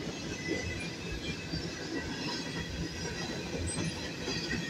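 Covered grain hopper cars of a freight train rolling past, their steel wheels rumbling steadily on the rails with faint high squeals from the wheels.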